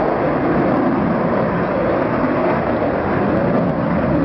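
Jet aircraft engine noise, a loud steady rush holding level throughout.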